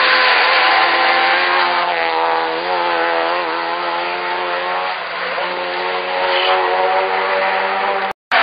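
Race car's engine running hard at high revs as it passes and pulls away uphill, its pitch wavering briefly about three seconds in and dipping about five seconds in. The sound cuts off suddenly near the end.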